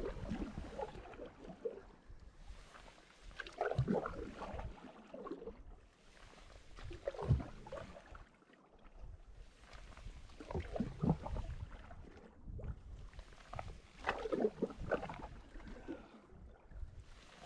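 A canoe paddle dipping and pulling through the water, with a splash and gurgle about every three and a half seconds, five strokes in all.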